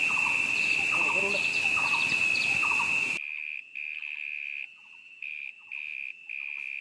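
An insect trilling on one steady high pitch, with short repeated chirps lower down. About three seconds in the background hiss cuts off suddenly and the trill then comes in separate pulses, each roughly half a second to a second long.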